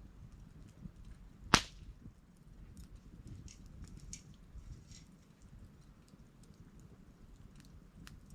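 Wood campfire burning with light scattered crackles and one sharp, loud pop about a second and a half in.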